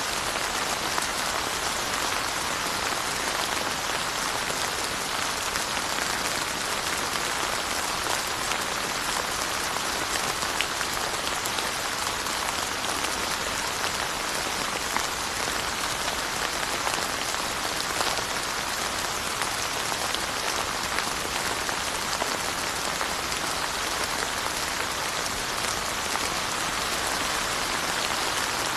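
Steady rain falling on surfaces, an even hiss full of fine drop ticks, with no change in strength.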